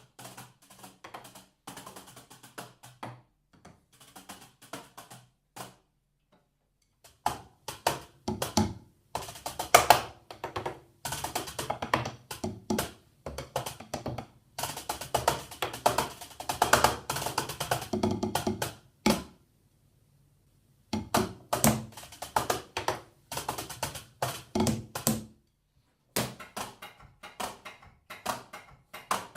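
Roland electronic drum kit played unamplified: sticks clacking on the mesh snare and tom pads and rubber cymbal pads, with thuds from the kick pad. The playing pauses about six seconds in and again just before twenty seconds.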